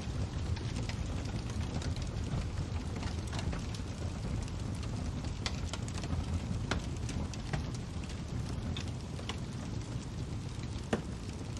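Fire crackling: a steady low rumble of burning with irregular sharp pops and snaps, a louder pop near the end.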